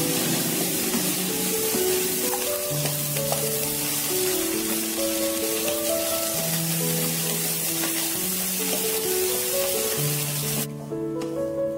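Corn-kernel and egg mixture sizzling in a little oil in a wok while a wooden spatula stirs it, frying until dry and slightly charred. A gentle melody of held notes plays along with it, and the sizzle cuts off about a second before the end.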